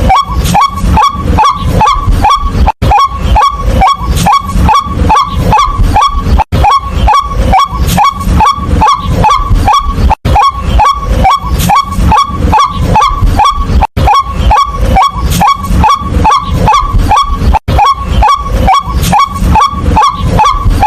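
White-breasted waterhen calling: a loud, rapid run of harsh, repeated notes, about three a second, each sliding slightly down in pitch. It runs as a loop, breaking off for an instant every three to four seconds.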